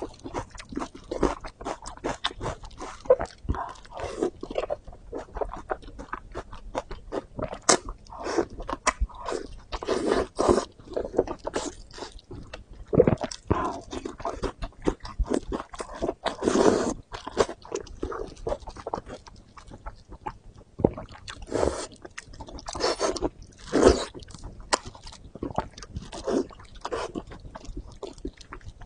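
Close-miked chewing and biting of fatty pork: an irregular run of wet mouth sounds and bites.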